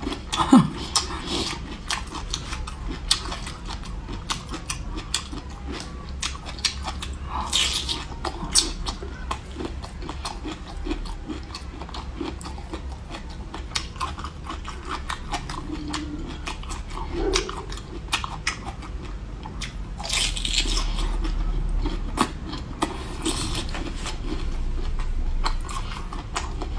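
Close-up chewing and biting of cooked bamboo shoot flesh: irregular moist crunches and mouth noises. A short falling hum about half a second in.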